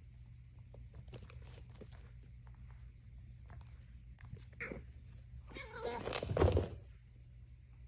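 Pet tabby cat making small sounds: scattered soft clicks and rustles, then a louder, noisy sound lasting about a second around six seconds in.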